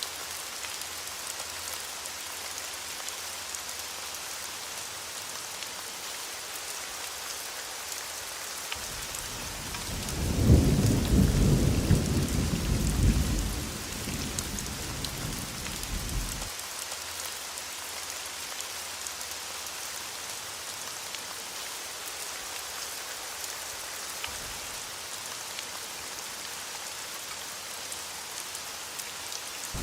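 Steady heavy rain hissing, with one roll of thunder rumbling up about nine seconds in, loudest for a few seconds and dying away by about a third of the way through.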